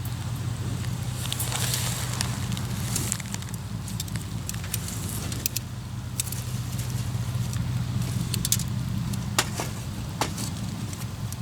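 Wood fire crackling, with scattered sharp pops, the strongest about nine and ten seconds in, over a steady low rumble.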